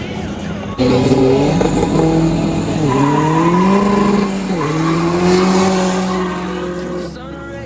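Tuned Škoda Fabia RS TDI diesel launching hard and accelerating, the engine's pitch climbing and dropping sharply at two gear changes, then fading near the end.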